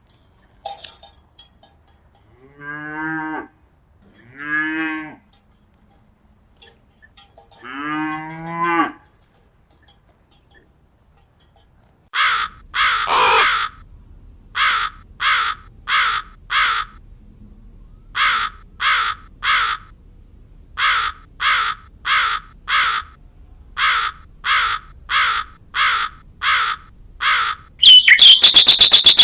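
A cow mooing three times in long, drawn-out calls, followed by a crow cawing over and over in quick runs of three to five short caws. A sudden loud, noisy sound starts near the end.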